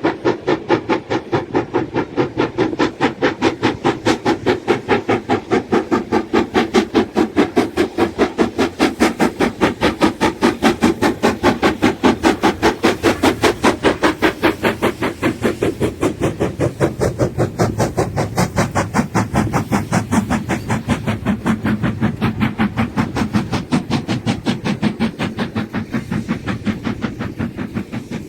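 Steam locomotive working hard, its exhaust chuffing in a fast, even rhythm of several beats a second. The beats grow weaker in the second half.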